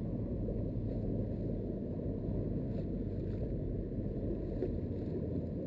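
Steady low rushing noise of wind buffeting the microphone, with no clear rhythm or change.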